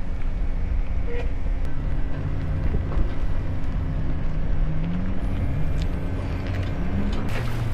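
A motor engine running under wind noise, its pitch climbing twice as it speeds up.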